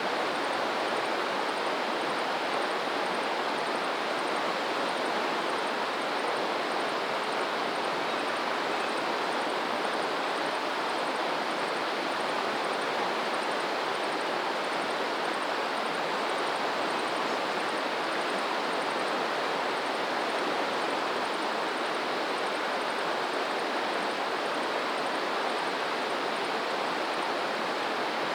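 Steady rushing of running water from a stream or river, even and unbroken with no rise and fall of waves.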